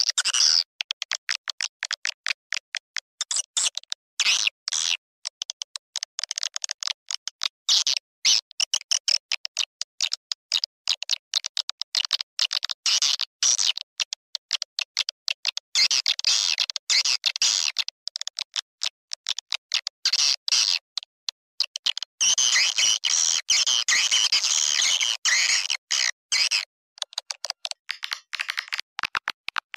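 Swiftlet call recording: rapid, choppy bursts of edible-nest swiftlet chirps and twitters broken by short gaps. It is a lure sound played to call swiftlets into a swiftlet house.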